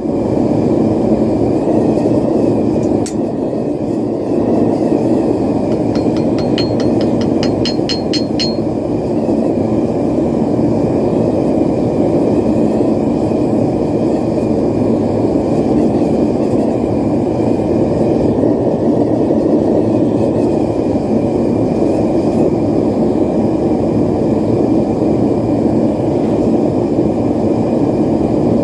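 Propane forge burner running with a loud, steady roar. About six seconds in, a quick run of about ten light metallic taps rings out over it.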